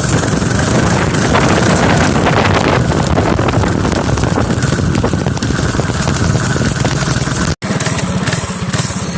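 Harbor Freight Predator 212 Hemi single-cylinder four-stroke engine on a minibike running steadily. The sound cuts out for an instant about seven and a half seconds in.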